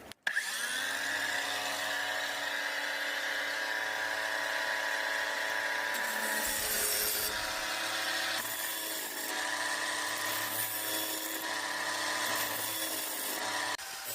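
Battery-powered grinder running steadily, its motor whining over a grinding hiss as it sharpens the teeth of a dull sawmill blade. The sound stops abruptly near the end.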